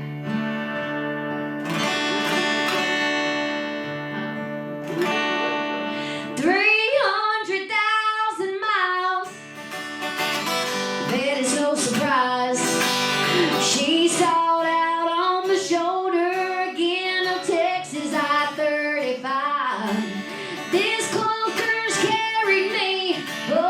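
Live song performance: a strummed acoustic guitar plays the intro, and a woman starts singing over it about six seconds in.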